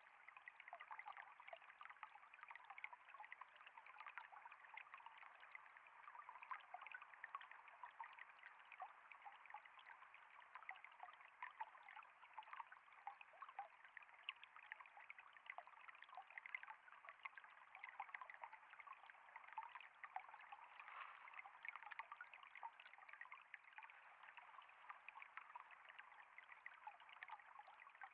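Quiet, steady flowing water: a small stream of trickling water with a continuous babble of tiny splashes and ripples.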